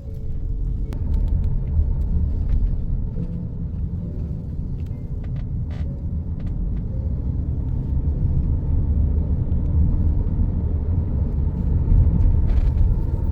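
Steady low rumble of a running motor vehicle, heard from on board, with a few faint clicks.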